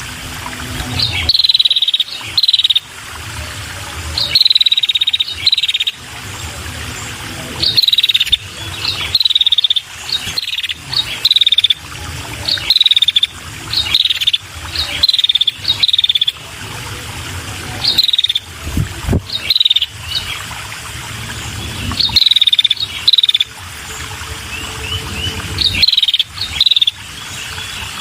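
Female red-headed prenjak calling: short bursts of rapid, high, slightly falling chirps, repeated every second or two. A steady insect-like buzz and a low hum run underneath.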